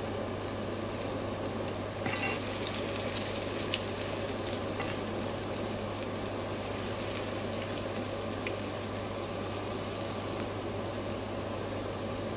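Potato pancakes (deruny) sizzling steadily in hot oil in a frying pan, with a few faint clicks of the spatula and knife as the pancakes are turned over.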